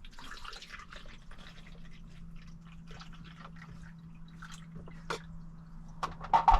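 Water dripping and splashing from a just-filled coffee maker water tank as it is handled, with a few sharp plastic clicks and knocks, loudest near the end, over a low steady hum.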